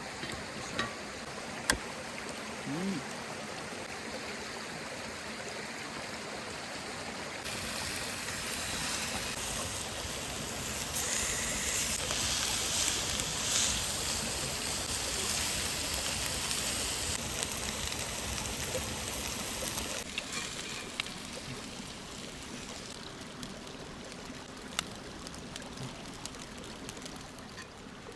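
Creek water flowing and rushing, a steady even wash of sound that gets louder for a stretch in the middle, with a few faint clicks.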